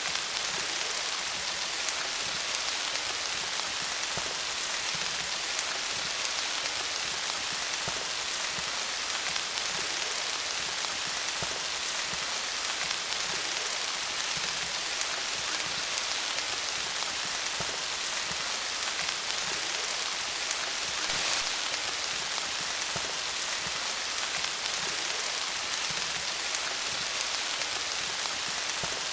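Steady rain falling on leaves: an even hiss of many fine drop patters, with a slight brief swell about twenty seconds in.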